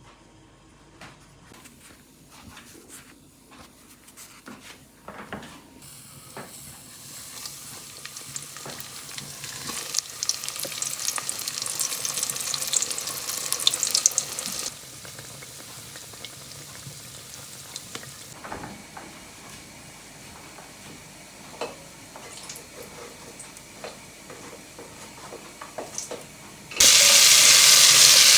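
Quiet clicks and knocks of kitchen handling, then a rising hiss that cuts off sharply about halfway through. Near the end, food goes into hot fat in a pan and starts sizzling loudly.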